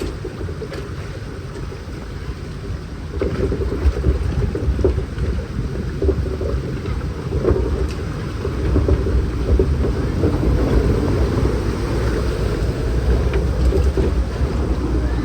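Log flume boat travelling along its water channel: a steady low rumble mixed with rushing, splashing water. It grows louder about three seconds in.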